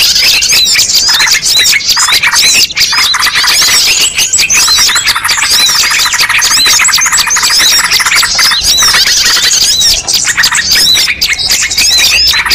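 Many small birds chirping, twittering and squeaking over one another in a dense, unbroken chorus, a mixed bird-lure recording. The calls are rapid, high-pitched and loud throughout.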